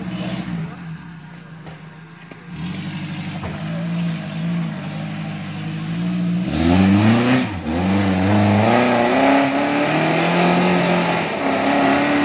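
Suzuki Jimny 4x4's engine revving in low-range gear as it crawls through deep muddy ruts. The revs rise and fall repeatedly, and the engine grows much louder about six and a half seconds in as the vehicle climbs up close.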